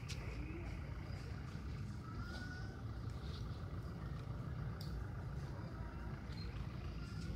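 Steady low rumble of vehicle engines in the street, with a few faint short sounds above it.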